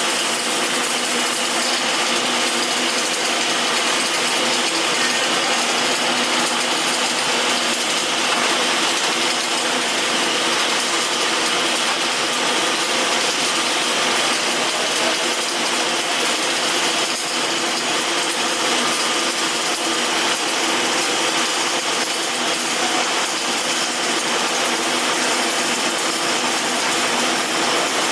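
Steady noise of metalworking at a welding test, with a faint hum running beneath it and no breaks.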